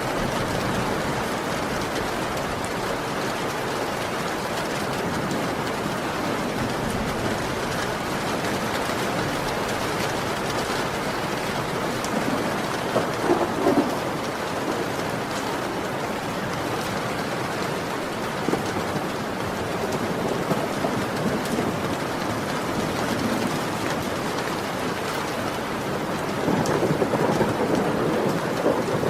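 Heavy rain falling steadily, with rumbles of thunder swelling up about halfway through and again near the end.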